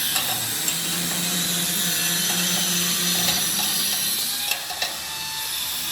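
A handheld power tool running steadily with a loud, hissing whine on metal work, and a low hum underneath for the first three seconds or so.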